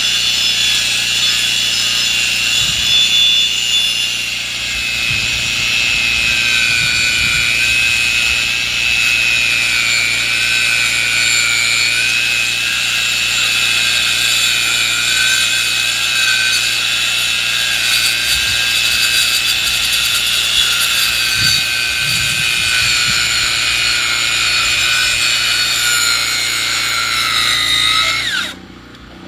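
Power saw milling lumber, running steadily under load as it cuts through wood, then winding down with a quickly falling pitch near the end.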